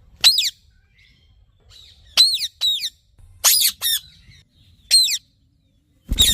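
Indian ringneck parrot giving a series of short, harsh screeches, each dropping in pitch, spaced irregularly with pauses between them. A low thump comes near the end.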